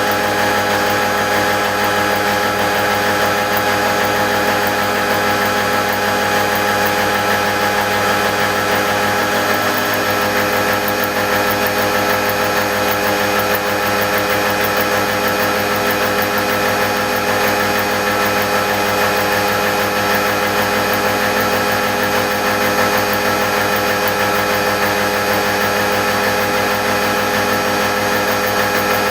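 CoroMill 176 indexable gear-milling cutter cutting gear teeth in a machine tool: a steady machining whine made of several held tones, with a slight change in tone about ten seconds in.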